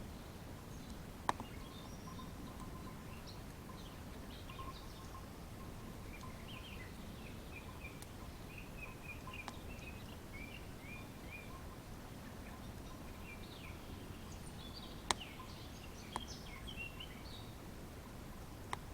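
A wood campfire burning with a low steady rustle and a few sharp crackles and pops, one about a second in and several near the end. Small birds chirp in quick series through the first half and again near the end.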